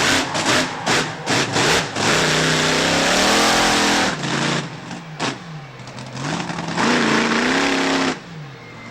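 Monster truck engine revving. It gives a quick run of short throttle blips, holds high revs for a couple of seconds, then rises and falls several times before dropping back near the end.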